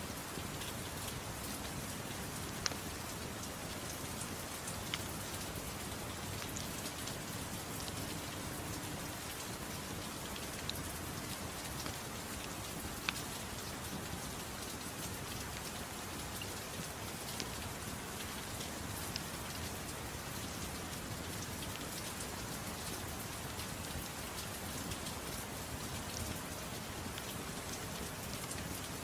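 Soft, steady rain mixed with a fireplace crackling, giving a few sharp pops.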